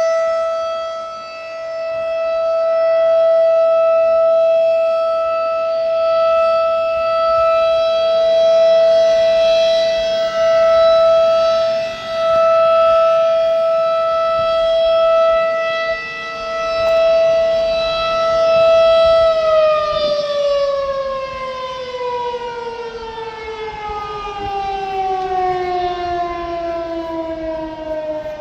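Outdoor warning siren sounding one steady wailing tone that swells and fades every few seconds as it rotates, then winds down with a falling pitch for the last third.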